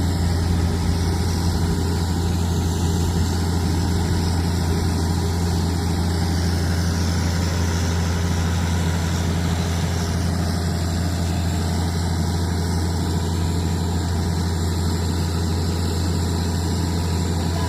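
Heavy diesel engine of earthmoving equipment running steadily with a deep, unchanging hum.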